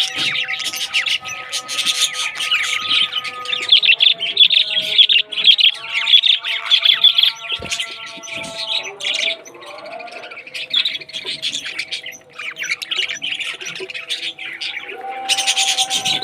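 Many parrots chirping and squawking at once in a continuous chatter, over background music with long held notes.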